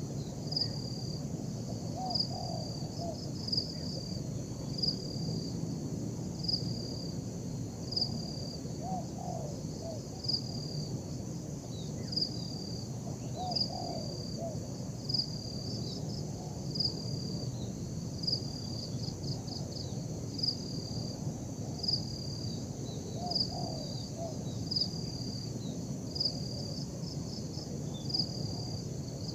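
Spotted dove (tekukur) cooing faintly a few times, low gliding notes, over a steady high insect drone. A short high chirp repeats about every one and a half seconds through the drone.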